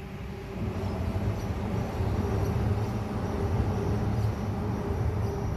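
A train running, a low rumble with a steady hum that grows louder about a second in.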